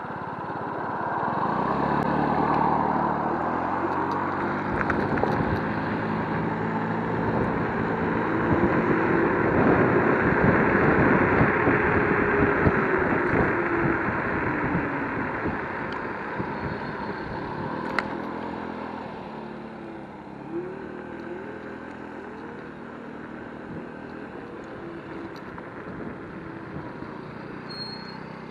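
A passing motor vehicle's engine and tyres, building up, loudest about ten seconds in, then fading away over steady road noise.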